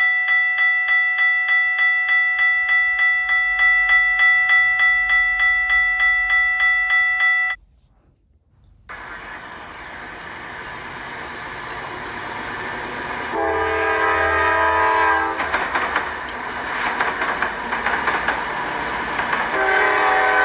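Recorded sounds of a real railroad crossing: a crossing bell rings in an even, fast pulse of about three strikes a second and stops about seven and a half seconds in. After a short pause a train approaches with a growing rumble and sounds its multi-note locomotive horn in a long blast, then again near the end.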